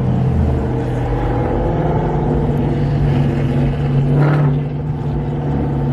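Car engine and exhaust droning steadily, its pitch stepping up slightly about a second and a half in, with a brief higher swell just past four seconds.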